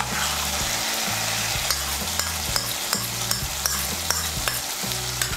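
Spice paste sizzling and frying in hot oil in a non-stick wok, with steady hiss and repeated sharp clicks and scrapes of a spatula or spoon against the pan.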